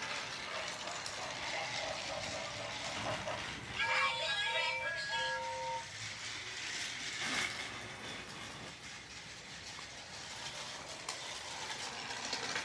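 Battery-powered TrackMaster toy engine running, a steady whir of its motor and gears. About four seconds in, a short electronic tune of a few stepped notes plays from a talking engine's sound chip.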